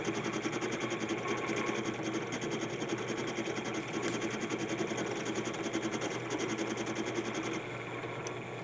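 A small electric shop power tool running steadily, with a fast, even ticking over its hum; it eases slightly and the ticking fades about seven and a half seconds in.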